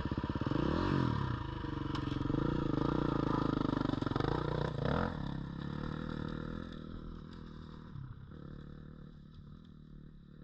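Dirt bike engine revving up and down on a steep hill climb, then running more steadily and growing quieter over the second half.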